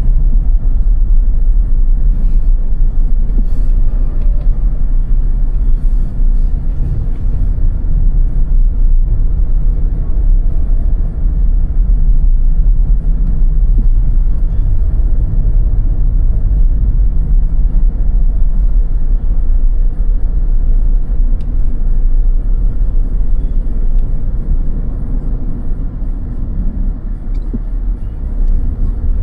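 Car driving on snow-covered roads: a steady low rumble of road and engine noise, easing slightly near the end.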